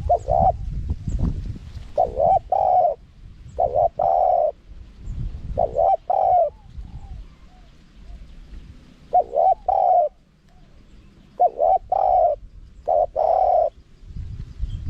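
Spotted dove (นกเขาใหญ่) cooing: a lure call of about seven short phrases of two or three coos each, separated by pauses.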